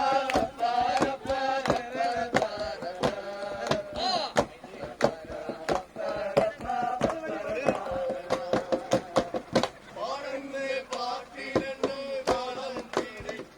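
Group of men singing a song together from a passing boat, over a sharp, fast rhythmic beat of claps or knocks.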